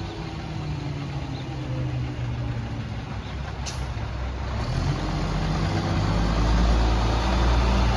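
Garbage truck's diesel engine running, growing louder from about halfway through, with a short click near the middle.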